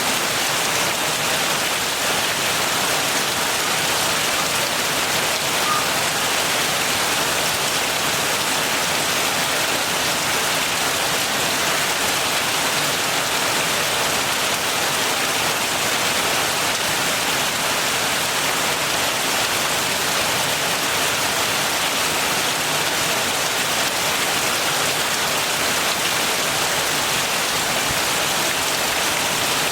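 Steady heavy rain falling, an even hiss of dense drops with no let-up or thunder.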